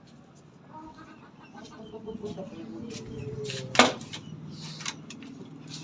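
Aseel chickens clucking, with scattered ticks and one sharp, loud click a little over halfway through.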